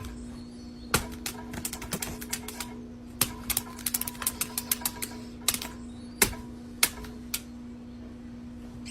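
Irregular run of sharp clicks and taps, several a second in clusters, over a steady hum.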